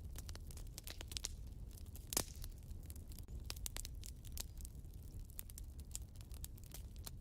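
Wood fire burning in a fireplace, crackling with irregular sharp snaps and one louder pop about two seconds in, over a steady low rumble of the flames.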